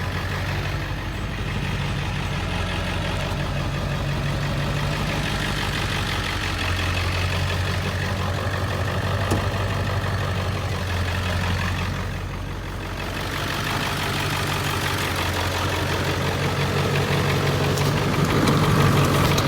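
A 1999 Ford F-350's 7.3 Power Stroke turbo-diesel V8 idling steadily with a low, even drone.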